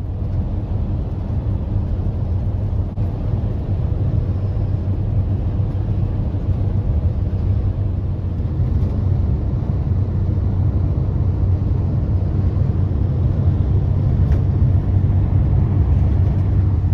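Steady low road and engine rumble from inside a moving vehicle.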